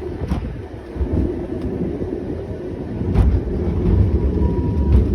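Old tram running along its track: a steady low rumble of wheels and running gear, with two sharp knocks about three seconds apart. The rumble grows louder about three seconds in.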